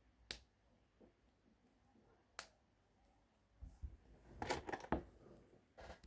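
Hard plastic LEGO pieces clicking as they are handled and pressed together: a sharp click about a third of a second in and another about two and a half seconds in, then a quick run of clicks and rattles between about four and five seconds, and one more near the end.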